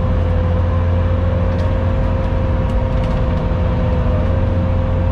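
Skid steer engine running steadily at working speed, with a steady whine held over the low drone.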